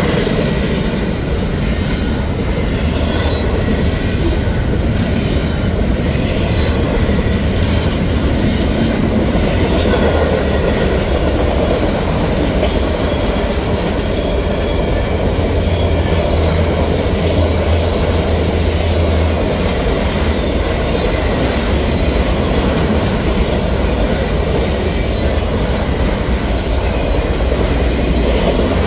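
A freight train of double-stack intermodal container cars and then autorack cars rolling past close by. Steel wheels on rail give a loud, steady rumble and clatter, with a faint high squeal running underneath.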